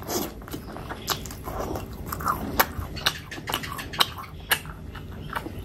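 Close-miked chewing of a mouthful of oily pork pickle: irregular wet clicks as the mouth works the food, with sharper pops every half second or so.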